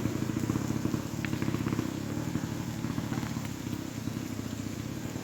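A trials motorcycle engine running at low revs with rapid firing pulses, growing gradually quieter. A few light ticks come about a second in.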